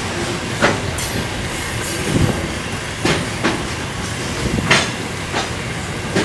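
Grain hopper wagons of a freight train rolling slowly past: a steady wheel rumble on the rails with irregular sharp clanks and knocks, about one a second.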